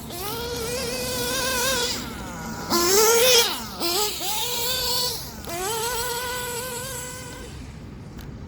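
Small nitro engine of an Ofna Hyper 7 RC buggy, a Hyper 3-port, running on 33% nitro with its top end just leaned, screaming through several bursts of throttle. The loudest burst, about three seconds in, climbs in pitch and then drops as the buggy goes by.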